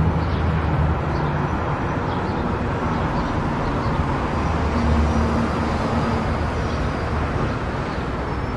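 Car driving: a steady rush of tyre and road noise with a low engine hum underneath that shifts in pitch now and then.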